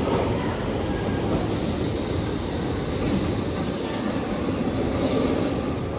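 Stockholm Metro train running on the rails, a steady rumble with a hiss that grows in the upper range from about three seconds in.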